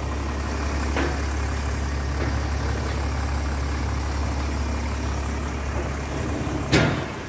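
Mercedes-Benz ML SUV engine idling with a steady low hum. There is a light knock about a second in and a loud thump near the end.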